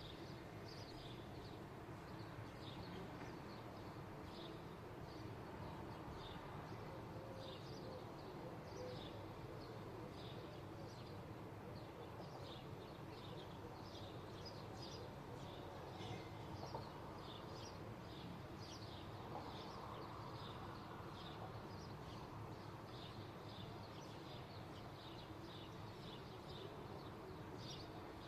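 Small birds chirping over and over in short, quick notes, faint, over a steady low rumble of background noise.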